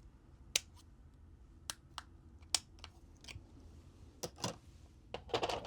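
Scattered light clicks and taps of small repair tools and screws on a phone's frame during disassembly, about eight to ten in all, with a quick cluster near the end.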